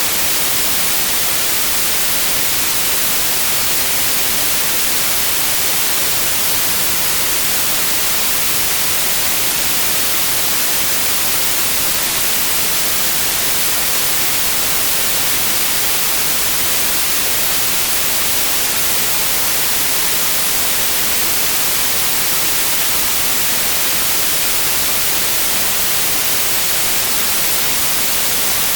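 Steady, unchanging white noise, an even hiss strongest in the high frequencies.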